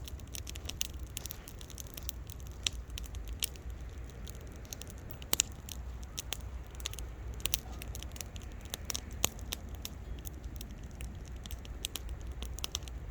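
Wood campfire crackling: irregular sharp pops and snaps, a few louder ones standing out, over a low steady rumble.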